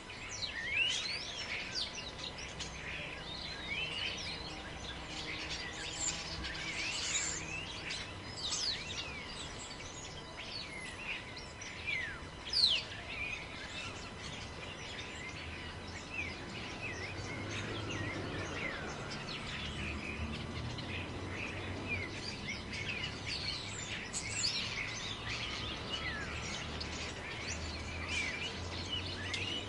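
Many small birds chirping and calling at once, quick high sweeping notes overlapping throughout, over a low wind rumble that grows stronger about halfway through.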